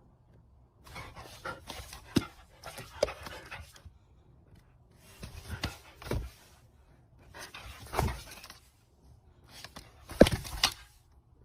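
A dog's breathy sounds in short bursts of about a second, roughly every two seconds, with a few sharp clicks among them.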